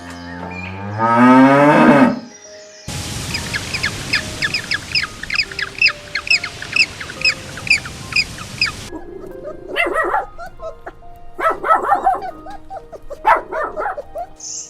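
A cow mooing in one long call that rises in pitch over about two seconds. It is followed by a stretch of rapid bird chirping over a hiss, then several short animal calls, with soft background music.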